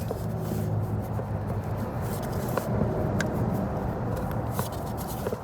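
Steady low mechanical drone, like an engine running, with a few sharp metallic clicks about two and a half to three and a half seconds in.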